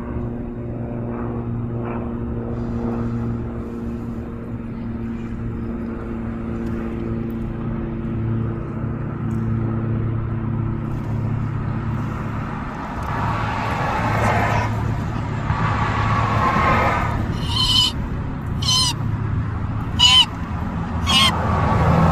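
A vehicle engine idling with a steady low hum. In the last third, wavering higher-pitched sounds come in, and about four short sharp sounds near the end are the loudest things heard.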